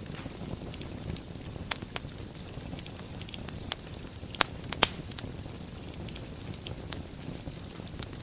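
Wood fire burning in a fireplace: a steady low rumble and hiss with scattered crackles, and two louder pops in quick succession near the middle.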